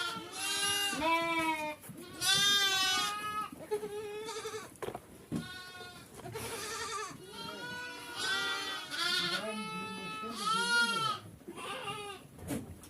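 Sheep and goats of a farm herd bleating: about ten calls in a row, each with a quavering pitch, some overlapping one another.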